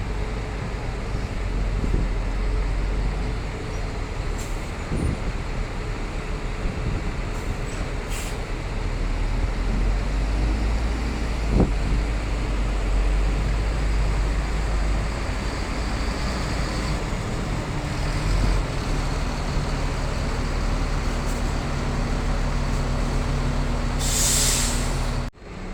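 A large vehicle running with a steady low rumble, and a short hiss about a second before the end.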